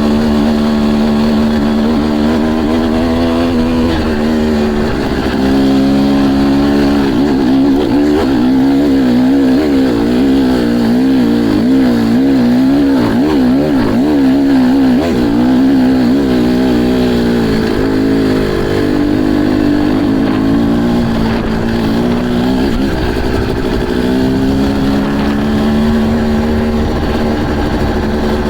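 Motocross bike engines running and revving, the engine note holding, then shifting and wavering up and down in pitch.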